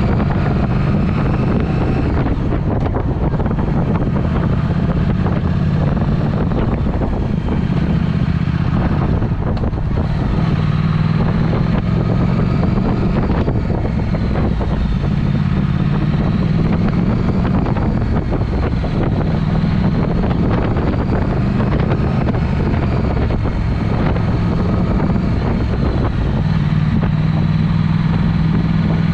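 Triumph Speed Twin's parallel-twin engine breathing through a Vance & Hines aftermarket exhaust while being ridden, its note rising and falling several times as the throttle and gears change, with wind rushing over the microphone.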